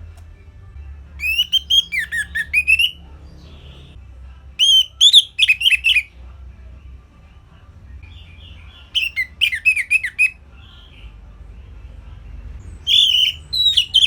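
Orange-headed thrush singing: four short phrases of fast, sweeping whistled notes a few seconds apart, with soft chirps between them.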